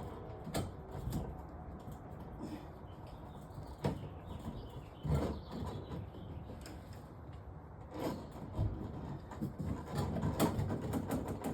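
Irregular knocks, clicks and scrapes from a drain snake being worked through a kitchen sink drain pipe clogged with caked oil, over a low rumble.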